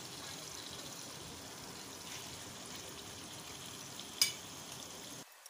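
Marinated chicken and chicken liver pieces sizzling in hot oil in a nonstick pan: a steady frying hiss with small crackles. One sharp tick stands out about four seconds in, and the sizzle cuts off abruptly near the end.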